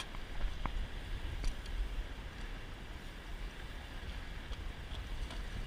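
Strong wind rumbling on the microphone aboard a fishing boat, with a faint click or two about half a second and a second and a half in.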